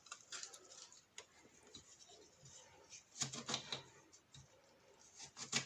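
Faint clicks and light rustling from hands packing cut, salted lemons into a jar, with a small cluster of knocks a little after three seconds and again near the end.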